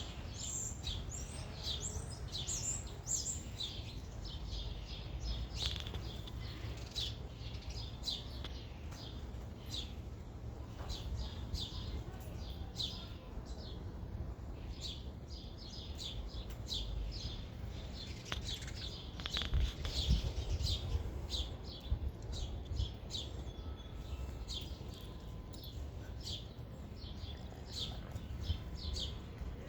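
Small birds chirping, many short high chirps repeating all through, over a steady low rumble.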